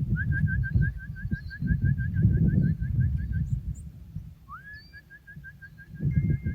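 A small bird's rapid trill: an even run of short, high chirps, about eight a second, lasting some three seconds, then a rising note and a second trill near the end. Low rumbling noise underneath comes and goes.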